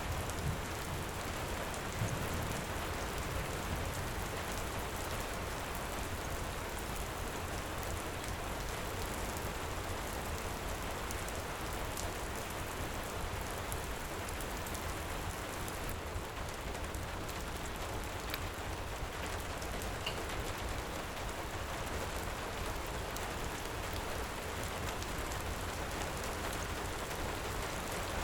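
Heavy rain falling steadily, an even hiss with a low rumble underneath and a few faint clicks here and there.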